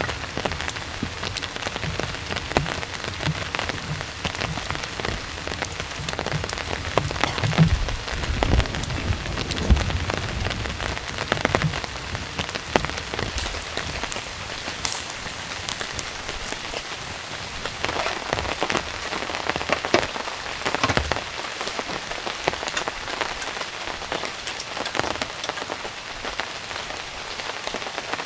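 Steady rain falling in a forest, with many separate drops ticking throughout and a brief low rumble about eight to ten seconds in.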